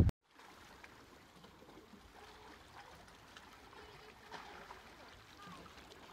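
Faint water lapping and trickling in a calm anchorage, with small faint ticks. A brief loud rush of noise at the very start cuts off abruptly.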